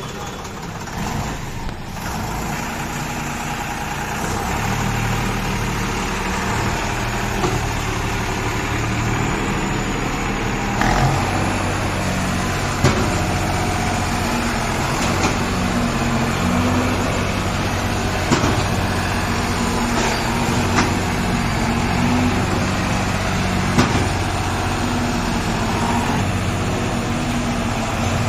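Deutz-Fahr tractor's diesel engine running steadily. Its pitch shifts up and down now and then, and there are a few short sharp knocks.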